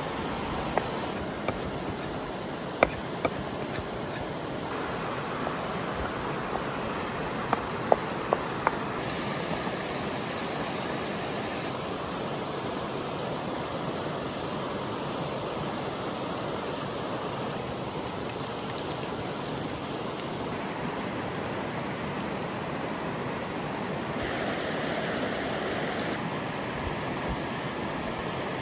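Sausages sizzling over a campfire: a steady hiss, with a few sharp pops and crackles between about three and eight seconds in.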